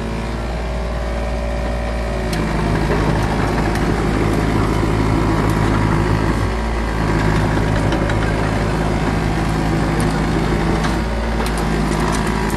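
CAT 303.5E2 mini excavator's three-cylinder C1.8 diesel engine running steadily. It grows louder about two seconds in, as the machine comes under working load. A few faint clicks sound near the end.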